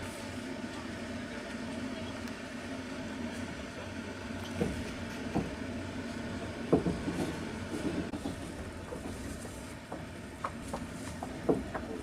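Passenger train running on the rails, heard inside the carriage: a steady rumble with irregular clacks of the wheels over the rail joints.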